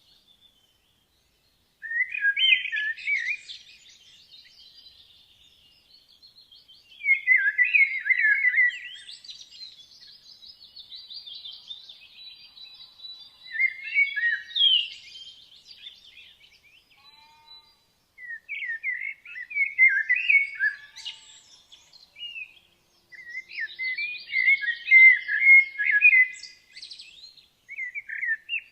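Woodland songbirds singing: loud, warbling phrases come in separate bouts every few seconds, with fainter song from other birds between them.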